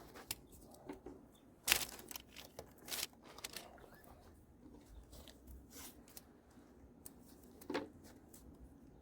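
Masking tape and masking paper being handled: short scattered sounds of tape tearing and paper crinkling, the loudest about two seconds in.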